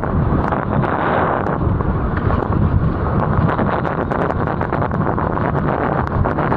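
Strong wind buffeting the camera's microphone in a steady, dense rumble while wing foiling at speed, with scattered faint ticks above it.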